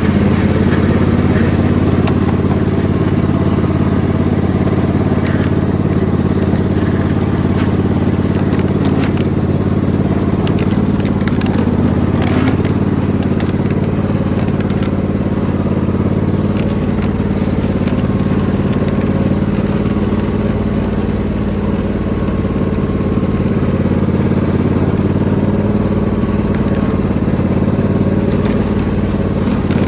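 Riding lawn mower engine running steadily at a constant speed, with scattered clicks and cracks.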